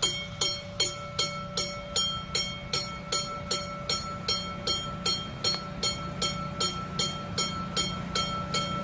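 Railway level-crossing warning bell ringing fast and evenly, about three strokes a second, over a steady low hum.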